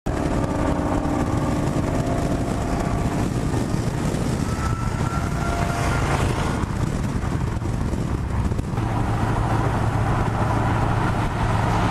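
V8 car engine running loudly without a break, its sound changing about nine seconds in.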